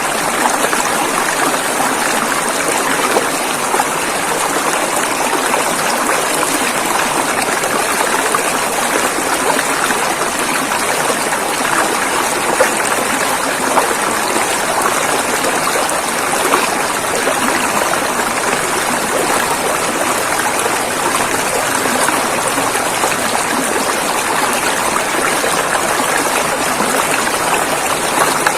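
River water flowing over rapids, a steady rushing and splashing that never lets up.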